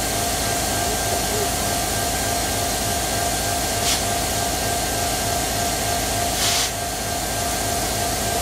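Train running: a steady rumble and hiss with a constant hum, and two brief hissing bursts, about four and six and a half seconds in.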